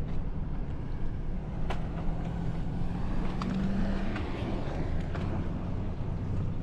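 Off-road SUV's engine running, heard from inside the cabin while driving on sand dunes, its pitch rising briefly about halfway through, with a few sharp knocks and rattles.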